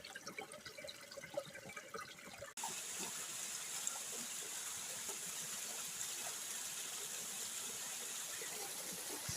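Running water: a light trickle with small splashes, then, after an abrupt cut about two and a half seconds in, a steady rush of flowing water.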